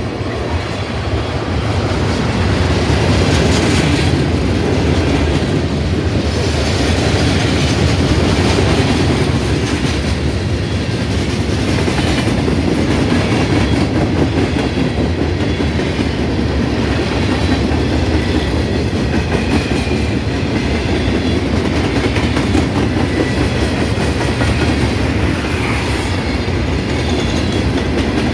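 A long train's cars rolling steadily past on the rails, wheels running over the track without letup.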